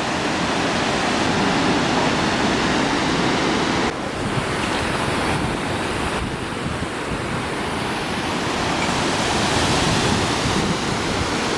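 Waterfall rushing: a steady, loud wash of falling water, with small shifts in level about four and six seconds in.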